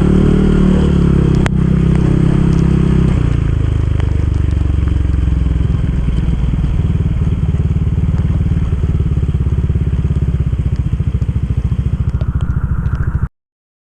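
Motorcycle engine running, easing off about three seconds in to a lower, pulsing beat like an idle that grows more distinct; the sound cuts off abruptly near the end.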